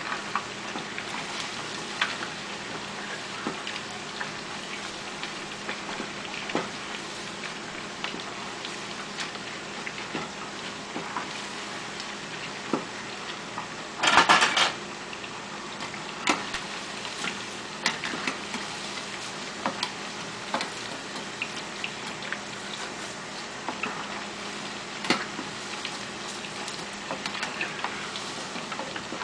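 Chicken pieces frying in a small saucepan of hot oil: a steady sizzle, with scattered light knocks of a wooden spoon stirring against the pan and one louder burst of clatter about fourteen seconds in.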